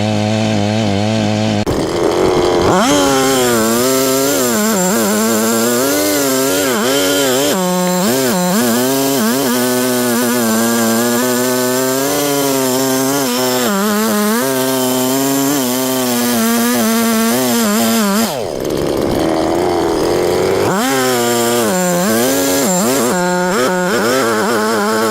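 Perla Barb 84cc two-stroke chainsaw running steadily for under two seconds, then revved up and cutting through wood, its engine speed rising and dropping as it loads in the cut. About eighteen seconds in it briefly drops off and revs back up into another cut.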